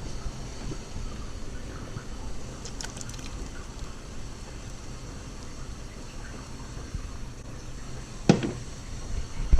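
Pan of water with Orbeez in it bubbling at a boil on a stovetop burner, with one short knock near the end.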